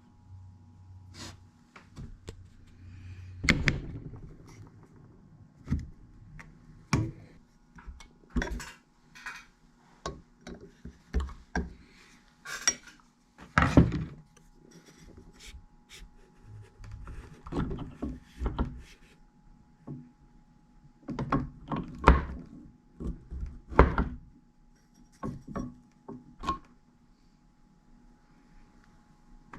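Hands working on a furnace blower motor, taking it apart: irregular knocks, clicks and clinks of parts being handled, a few of them sharper and louder.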